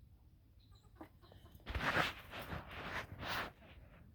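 Hens in a coop clucking softly, with a run of four rough rustling, scraping noises about two seconds in.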